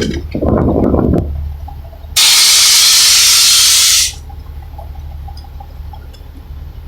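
Compressed air venting from a dump truck's air system in a loud hiss that lasts about two seconds, starting and stopping abruptly. A low steady hum runs underneath.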